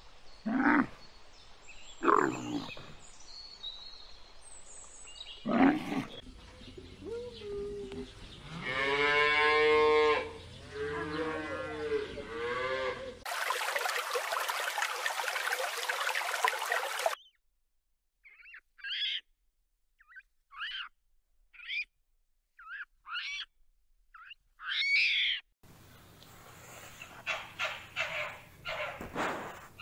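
A string of different animal calls, one after another: a few short loud calls, then long wavering pitched calls, a few seconds of steady hiss, and a run of short high yelps that grow denser near the end.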